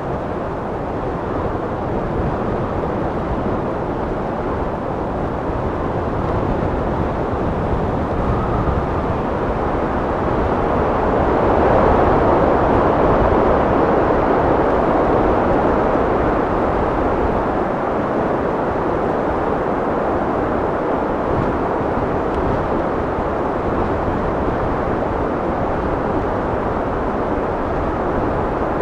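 Wind blowing with a low, steady rush that swells into a stronger gust about twelve seconds in, then eases back.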